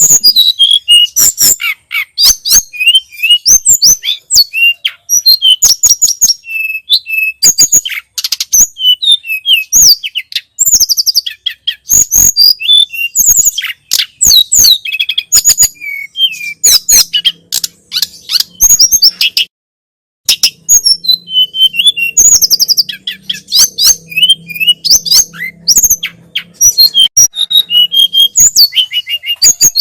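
A tledekan gunung (sulingan gunung) songbird singing loud, rapid phrases of high whistled notes, many of them quick falling sweeps, with a brief pause about two-thirds of the way through.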